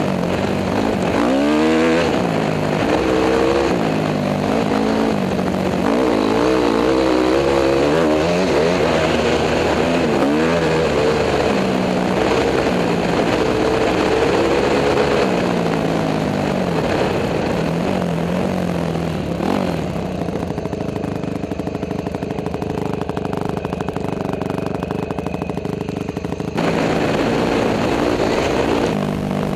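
Honda CRF250 dirt bike's single-cylinder four-stroke engine heard from a helmet camera while riding: the revs climb and drop again and again with throttle and gear changes. For about seven seconds in the second half it settles to a steadier, lower and quieter note, then picks up again near the end.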